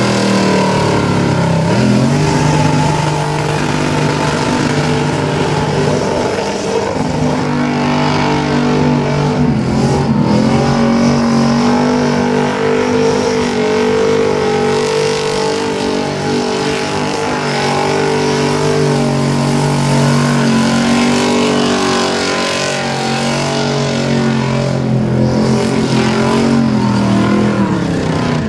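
Supercharged Holden VP Commodore V8 held at high revs through a burnout, loud, with its rear tyres spinning in smoke. The revs dip and climb back about two seconds in and again around ten seconds, then fall away near the end.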